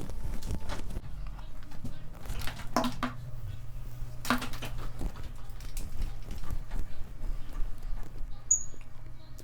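Rustling and light irregular clicks of hair being handled and wound around a curling iron used as a wand, over a steady low hum.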